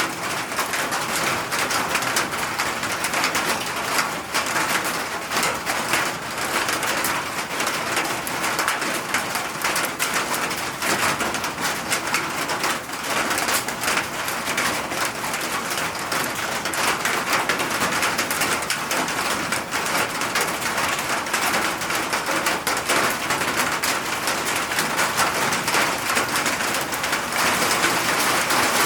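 Steady rain falling, a dense hiss of many fine drop ticks with no break, with a bird calling now and then over it.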